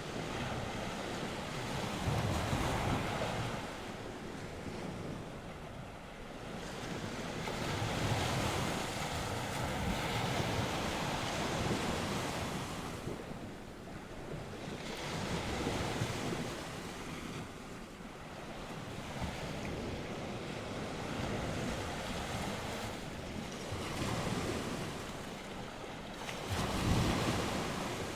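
North Sea surf: waves breaking and washing up one after another, swelling and fading every few seconds, with wind blowing on the microphone.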